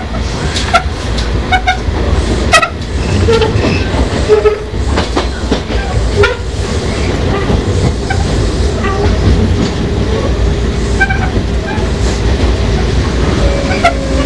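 Sotetsu 5000 series electric train running, heard on board motor car Moha 5054: a steady rumble with wheels clicking irregularly over rail joints. Near the end, a thin whine from the Toyo Denki VVVF inverter drive and right-angle cardan gears comes in and slowly falls in pitch.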